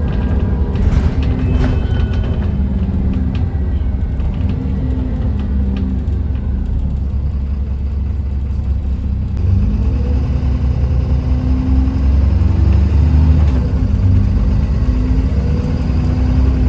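Dennis Trident 2 double-decker bus engine running under way, a steady low rumble with light rattles in the first couple of seconds, growing louder about nine seconds in as it pulls harder.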